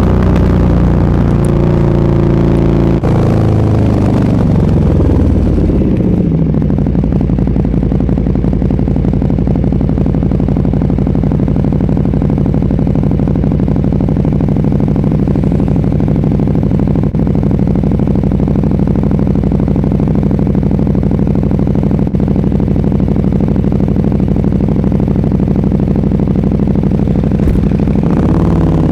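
Sport motorcycle engine with an aftermarket SC-Project exhaust: revs fall away over a few seconds, then it idles steadily with an even pulsing beat for over twenty seconds, and the revs begin to rise again at the very end.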